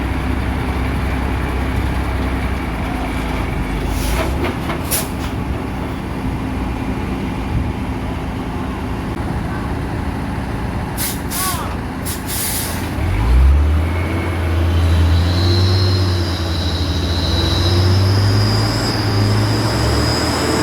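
Truck engine running, with short bursts of air hiss twice, then the engine note deepens and grows louder from about two-thirds of the way in, as it takes on load.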